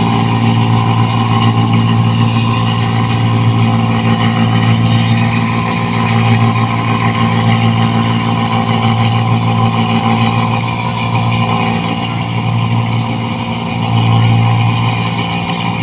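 New Holland 1545 combine harvester's diesel engine running steadily with a loud exhaust. The engine note sags slightly near the end, then picks up again.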